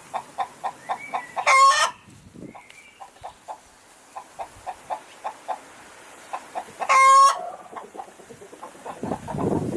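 Chickens clucking in a steady run of short clucks, about three a second, broken twice by a loud, shrill call, about a second and a half in and again about seven seconds in. A louder rough, scuffling noise comes in near the end.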